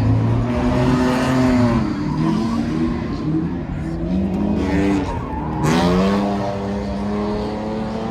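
A car engine revving hard, its pitch rising and falling several times. About two-thirds through, the revs jump suddenly and then hold steady at a high pitch.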